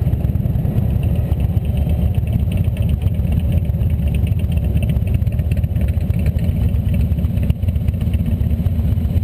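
Motorcycle running at steady road speed, its engine mixed with heavy wind rush on the microphone.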